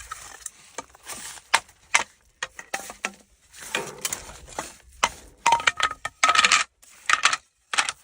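Irregular clinks and clatters of small hard objects being handled, some ringing briefly like metal or crockery.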